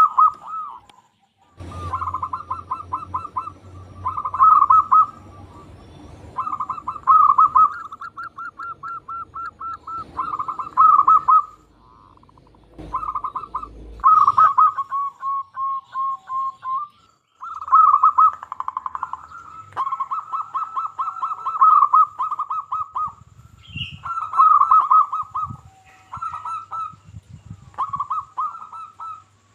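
Zebra dove cooing: repeated phrases of rapid, rolling notes at about the same pitch, broken by short pauses.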